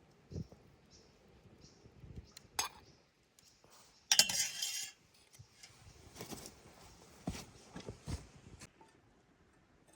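Scattered clinks and knocks of cookware and utensils, with one louder metallic clatter about four seconds in and a few dull thuds later.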